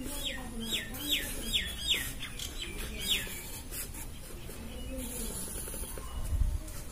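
A bird calls in the background: a quick run of about eight short chirps, each sliding down in pitch, over the first three seconds. Near the end there is a soft low bump.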